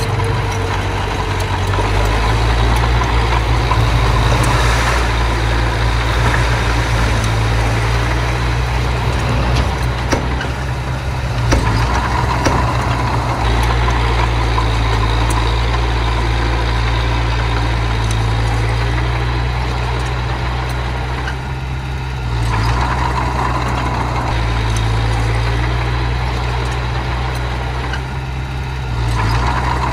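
Diesel engine of a small bulldozer running steadily, its low hum shifting as the load changes, with a few knocks about a third of the way in.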